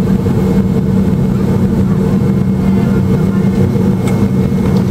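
Cabin noise inside a Boeing 757 taxiing after landing: the engines at idle and the air system make a loud, steady drone with a constant hum.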